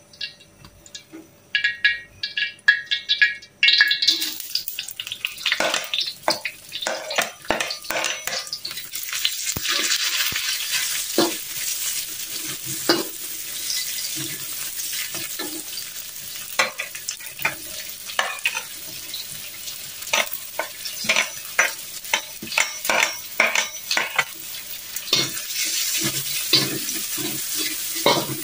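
Dried anchovies frying in hot oil in a wok, sizzling steadily from about four seconds in, with a slotted spatula scraping and knocking against the wok as they are stirred.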